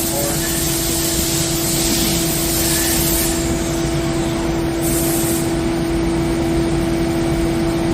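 CNC lathe running with a steady machine hum and a high spraying hiss. The hiss cuts off about three seconds in and comes back briefly around five seconds.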